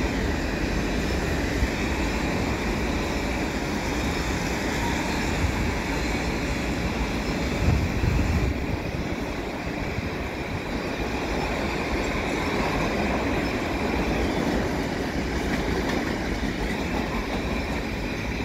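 Freight train tank cars rolling past: a steady rumble and rattle of wheels on the rails, with one brief louder thump about eight seconds in.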